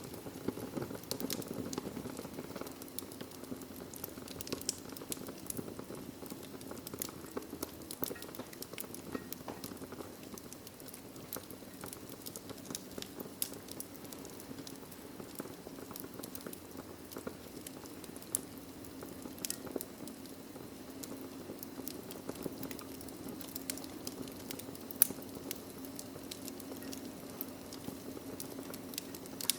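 Wood fire burning in a fireplace: frequent sharp crackles and pops over a steady low rush of the flames, with one louder pop about 25 seconds in.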